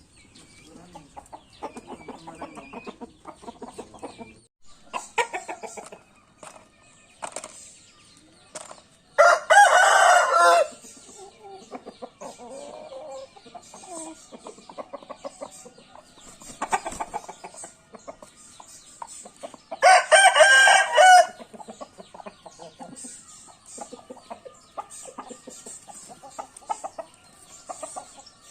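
Bangkok game rooster crowing twice, about ten seconds apart, each crow lasting about a second and a half. Softer clucking runs between the crows.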